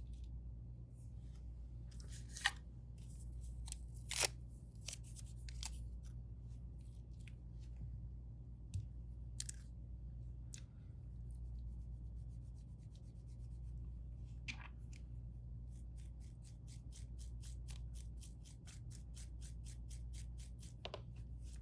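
Small clicks and taps of tools and parts being handled during a phone repair, over a steady low hum. Over the last five seconds comes a run of quick, even ticks, about six a second.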